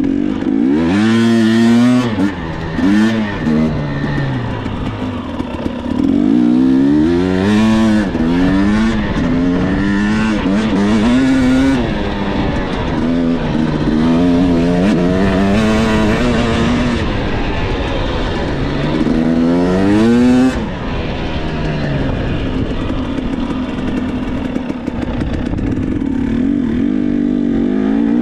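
Dirt bike engine being ridden, its pitch climbing and dropping back over and over as the throttle is worked, then settling to a steadier, lower, slightly quieter note for the last several seconds.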